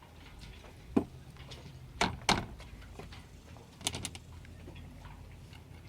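A few separate knocks and clunks of a sailboat's hatch being opened and handled, a single one about a second in, a pair near two seconds and a small cluster near four seconds.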